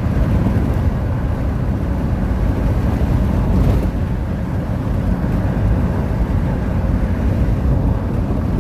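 Small aircraft in flight: a steady loud rumble of engine and rushing air noise, unbroken throughout.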